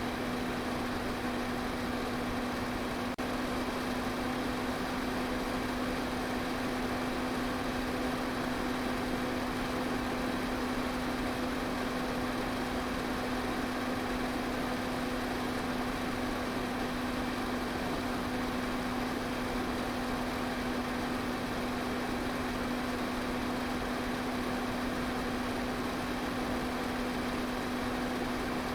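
Electric pedestal fan running steadily: an even rush of moving air over a constant motor hum.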